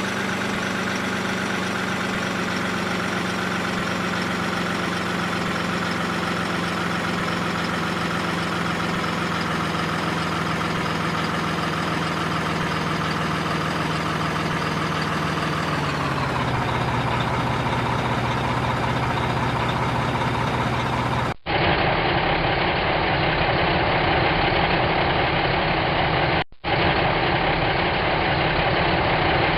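A steady engine-like drone with even tones that drops slightly in pitch about sixteen seconds in. It cuts off abruptly about twenty-one seconds in and is replaced by a duller drone of the same kind, broken once by a brief dropout.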